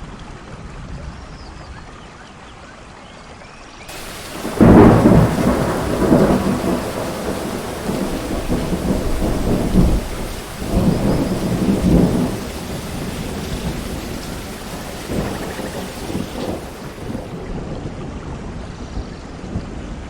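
Thunderstorm: steady rain with a loud crack of thunder about four seconds in, followed by long rolling rumbles that come and go before fading back to rain.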